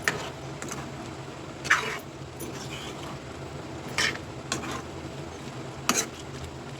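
A metal spoon stirring a chicken masala in a kadhai, scraping and knocking against the pan a few times, over a steady low hum.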